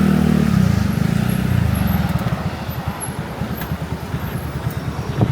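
A motor vehicle engine running close by in street traffic. It is loudest in the first second or so, then settles into a steady, fast low pulsing.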